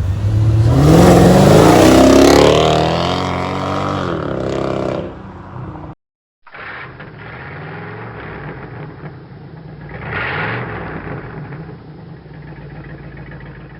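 Car engine revving up hard, its pitch climbing over about two seconds and then falling back. After a sudden cut, an engine runs steadily with one more short rev about four seconds later.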